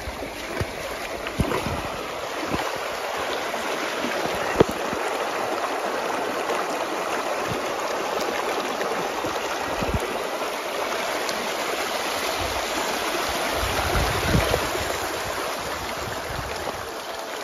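River water rushing steadily over rocks, with a few knocks, one sharp one about four and a half seconds in.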